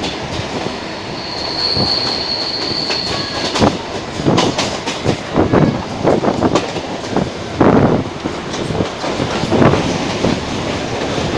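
Mumbai Harbour Line suburban electric train running, heard from its open doorway: wheels knocking over rail joints at irregular intervals over a steady running noise, with a thin, steady high squeal for about three seconds starting near the beginning.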